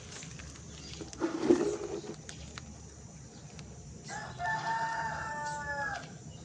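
A rooster crowing once, a held call of about two seconds near the end, with a short noisy burst about a second in.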